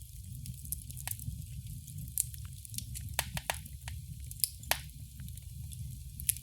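Wood fire burning in a fireplace: irregular sharp crackles and pops over a low steady rumble of the flames, with a quick run of pops about three seconds in and the loudest snaps a little later.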